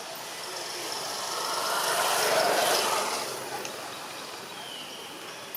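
A motor vehicle passing by, its engine and road noise swelling to a peak midway and then fading away.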